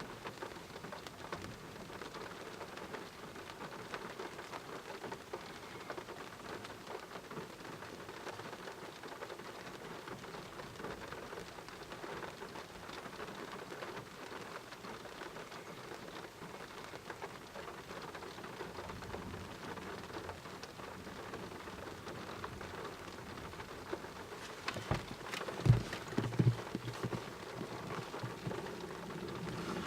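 Steady rain falling hard during a thunderstorm, with a few sharp thunder cracks near the end and a louder rumble building in the last seconds.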